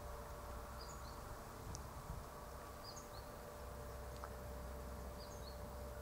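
Faint outdoor ambience: a steady low hum, with a small bird's short high chirp repeated about every two seconds.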